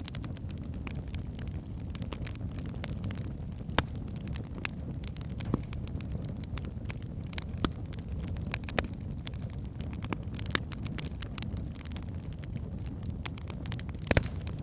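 Wood fire burning in a fireplace: a steady low rumble of flames with frequent small crackles and several louder sharp pops.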